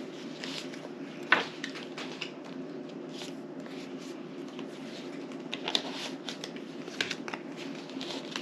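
Playing cards being handled at a table: scattered light clicks and snaps, the sharpest about a second in, over a steady low hum.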